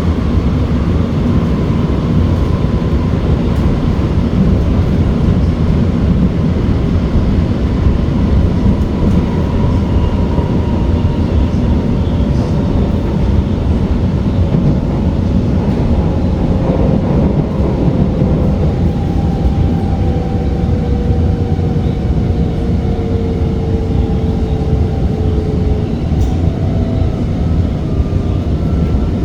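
Interior of an SMRT R151 metro train running between stations: a steady low rumble of wheels on rail, with a faint electric motor whine that slowly falls in pitch.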